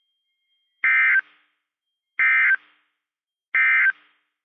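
Three short bursts of weather-radio data tones, the raspy two-tone SAME digital code sent three times with about a second of silence between them. This is the end-of-message code that closes the severe thunderstorm warning broadcast.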